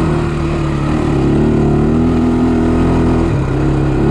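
Honda sport ATV's single-cylinder four-stroke engine running, its pitch rising a little after about a second and dropping off about three seconds in.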